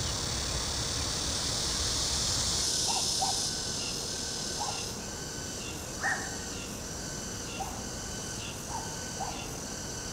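A steady rushing noise that cuts out a little under three seconds in, giving way to quiet outdoor ambience with short bird calls scattered every second or so.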